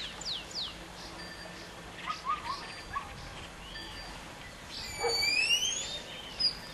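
Birds calling: three quick falling whistles at the start, a few short chirps about two seconds in, and a loud rising whistle about five seconds in.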